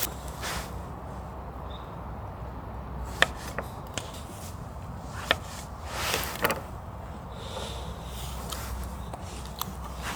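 A few sharp separate clicks and knocks and soft rustling sweeps, over a low steady hum.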